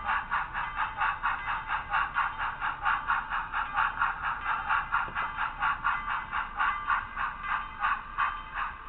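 HOn3 model K-27 narrow-gauge steam locomotive running, heard from a small camera riding on the train: a steady rapid beat of about five pulses a second that slows near the end.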